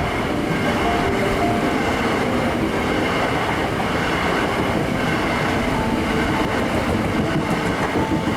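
Hankyu electric train running past at a level crossing: a loud, steady rumble of wheels on the rails.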